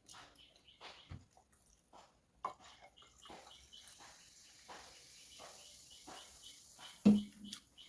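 Close-miked eating sounds: soft, irregular chewing and wet mouth sounds of someone eating noodles, with one louder, deeper gulp or knock about seven seconds in.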